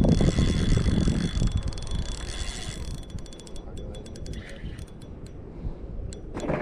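Fishing reel cranked fast for about three seconds, its gears whirring and clicking as a hooked fish is reeled in, then going quieter. Wind rumbles on the microphone throughout.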